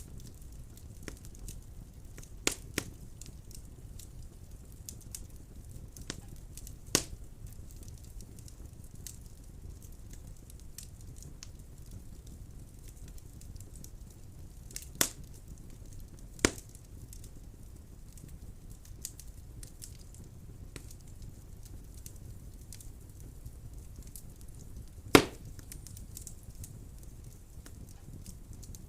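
Wood fire burning in a fireplace: a low steady rustle of flames with scattered small crackles and half a dozen sharp pops of burning wood, the loudest about 25 seconds in.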